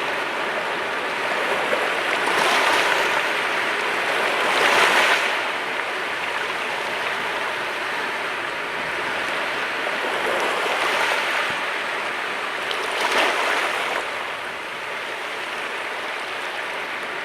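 Mediterranean sea waves washing onto the shore: a continuous rush of surf, with louder breakers swelling up several times.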